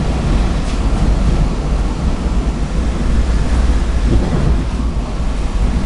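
Steady low rumble of a moving passenger train, heard from on board.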